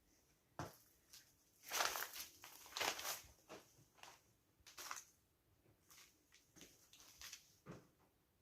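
Irregular footsteps with scuffing and crunching steps on a floor, the heaviest clusters about two and three seconds in, and a few lighter steps after.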